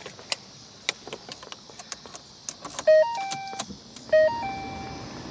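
Several light clicks, like keys and switches being handled, then a 2012 Ford Fiesta's electronic three-note chime sounding twice about a second and a half apart as the car is switched on. The chime has a short low note, a short higher note, then a held middle note.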